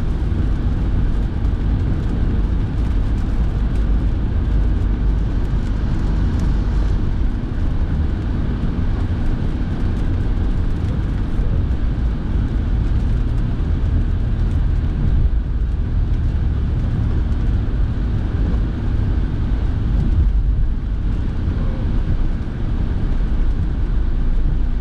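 Steady cabin noise of a car being driven on wet roads: a low road and engine rumble with the heater fan blowing.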